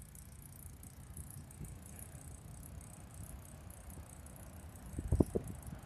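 Bicycle rolling along, its freewheel ticking rapidly over a low rumble of tyres and wind. About five seconds in, a short burst of rattling knocks from the bike is the loudest sound.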